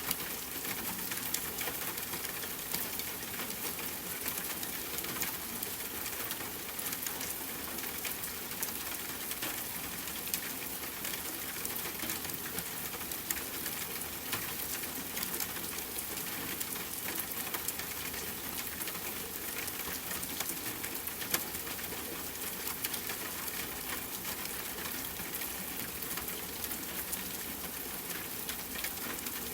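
Steady rain falling, with a constant scatter of small sharp crackles and pops from a campfire.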